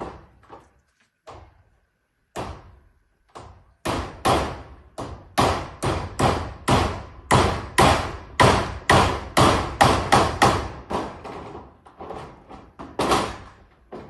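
Hammer nailing zinc roofing sheets. A few spaced blows come first, then from about four seconds in a steady run of about two to three blows a second, each with a short ring.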